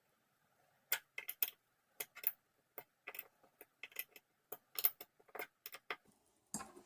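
Small irregular clicks and ticks of a hand tool and metal screws being tightened into a 3D printer's parts, about two or three a second, starting about a second in. A rustling clatter begins near the end.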